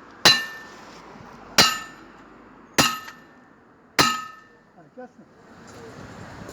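Four hammer blows on steel, about one every 1.2 seconds, each ringing briefly with a metallic clang. This is hammering on a truck tyre's steel rim.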